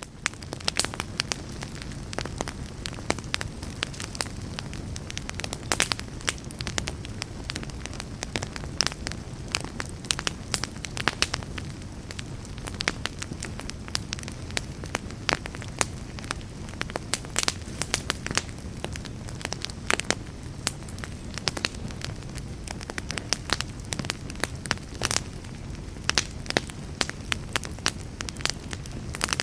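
Campfire crackling and popping: many sharp, irregular snaps over a steady low rumble of the flames.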